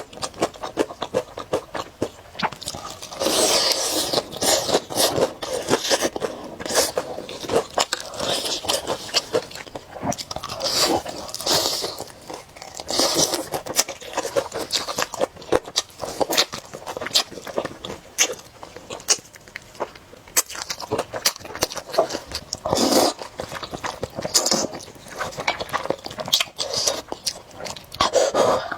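Close-miked eating: a person biting and chewing food, with many irregular crisp crunches and clicks.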